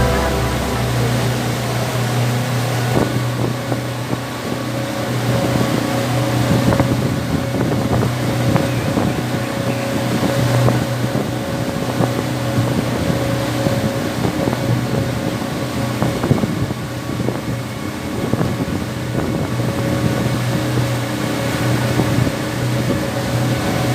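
Engine of a motorized passenger boat running steadily under way, a low hum with wind and water noise over it.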